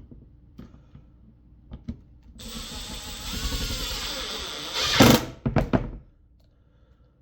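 Power drill driving a screw through a cabinet hinge into wood. The motor runs steadily for about two seconds, ends in a louder burst as the screw seats, and is followed by a few sharp clicks.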